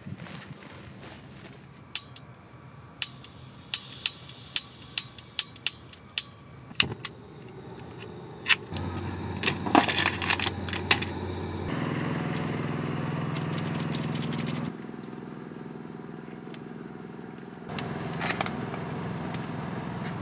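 About ten sharp clicks, then a vehicle engine running steadily, its level stepping up and down twice.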